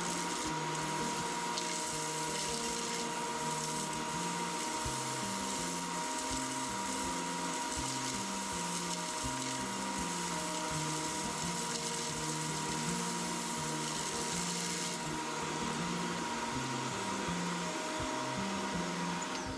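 Vacuum cleaner motor running steadily with a constant high whine and rushing air, under background music with a stepping bass line.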